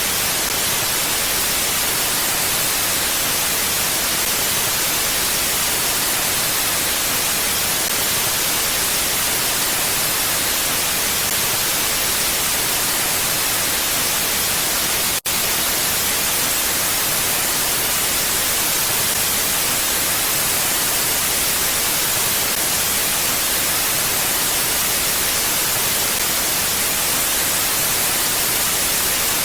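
Steady wind ambience: an even, bright hiss that does not gust or swell. It cuts out for an instant about halfway through.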